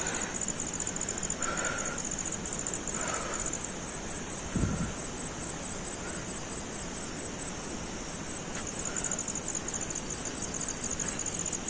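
Crickets chirping in a steady, high-pitched, rapidly pulsing trill, with a brief low thump about halfway through.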